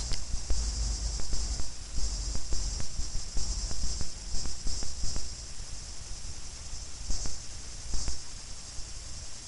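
Cicadas buzzing up in the trees, a thin high buzz that swells and fades in short irregular pulses, over a steady low rumble and scattered faint clicks.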